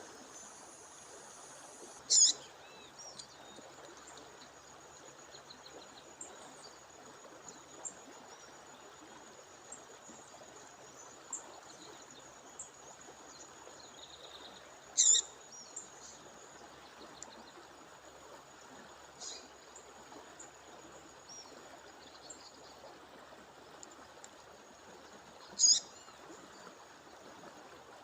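A female songbird giving short, sharp calls three times, a few seconds in, midway and near the end, with a few faint chirps between, over the steady rush of a waterfall. A thin, steady high whine runs underneath.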